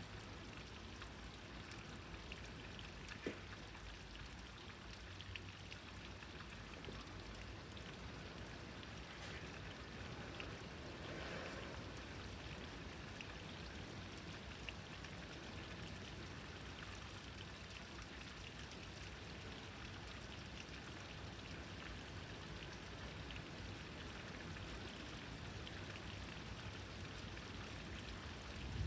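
Steady rain falling, with water dripping and trickling and a few faint ticks.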